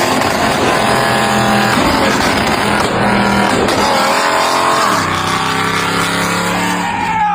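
BMW car engine running hard and loud, its note climbing through the gears, with a drop in pitch about five seconds in as it shifts up and then climbing slowly again. The sound cuts off just before the end.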